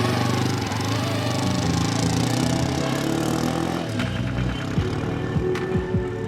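Motorcycle engine running steadily, a Zongshen 172FMM single-cylinder. About four seconds in the sound turns less even, with a few sharp clicks.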